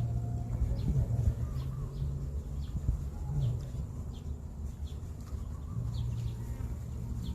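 Small birds chirping in short, high, falling notes, one every half second to a second, over a steady low hum.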